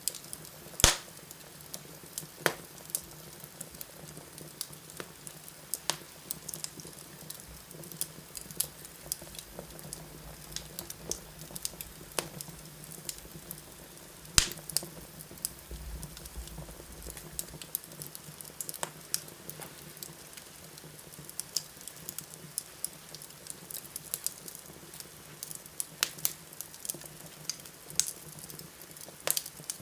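Fireplace fire crackling, with irregular sharp pops scattered over a steady soft hiss. The loudest pops come about a second in, about halfway through and near the end.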